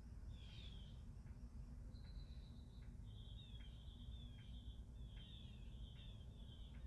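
Faint birdsong outdoors: high chirps and short repeated falling notes that come thicker from about three seconds in, over a steady low rumble.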